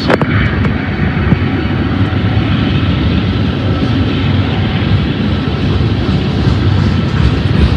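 Railroad tank cars of a freight train rolling past: steel wheels running on the rails in a steady, loud rumble, with a sharp click right at the start.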